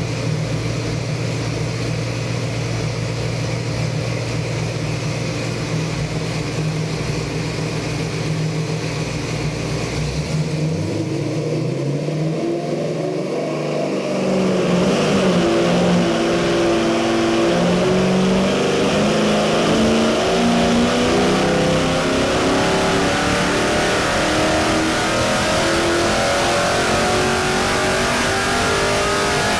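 Ford 302 small-block V8 with a Comp Cams hydraulic roller camshaft, Edelbrock E-Street aluminium heads and Edelbrock 750 CFM carburettor, running on an engine dyno. It runs steadily at low speed, then about ten seconds in its pitch climbs and from about fourteen seconds it holds louder at high rpm.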